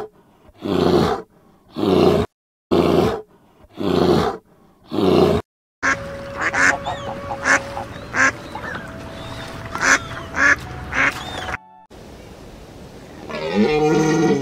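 A black bear's loud calls, six of them about a second apart. Then domestic white geese honking repeatedly. Near the end a bull elk gives one long call that rises and falls in pitch.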